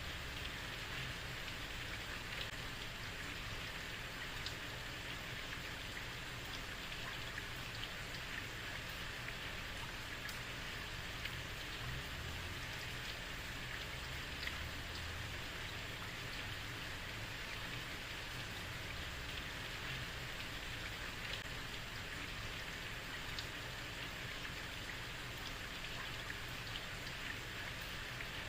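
Heavy rain falling steadily on a street, an even hiss with scattered drops pattering on hard surfaces.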